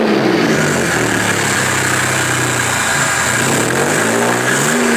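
Pontiac Grand Prix GTP's supercharged 3.8-litre V6 revving through a custom exhaust. The pitch climbs at the start, holds steady for a couple of seconds, dips about three seconds in, then climbs again near the end.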